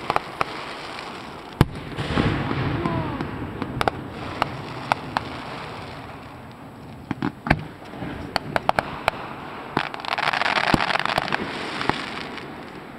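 Small consumer fireworks going off: a scattered string of sharp pops and bangs, with a couple of seconds of hiss about ten seconds in.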